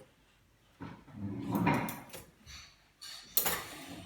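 Dishwasher rack sliding on its rails, with a few knocks and rattles. A sharper clack comes near the end.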